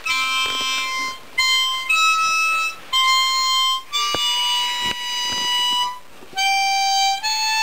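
Harmonica played slowly, a run of about seven single held notes with short breaks between them. The player is a beginner being coached on how to draw the notes.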